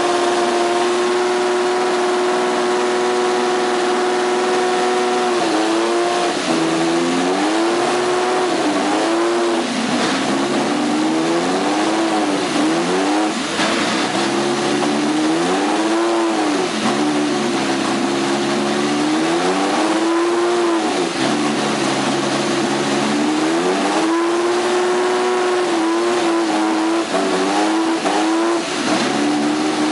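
McLaren MP4/4 Formula One car's Honda 1.5-litre turbocharged V6 running on the stand. It holds a steady fast idle, then is blipped up and down over and over in short revs. It settles back to a steady idle for a few seconds, then is blipped again near the end.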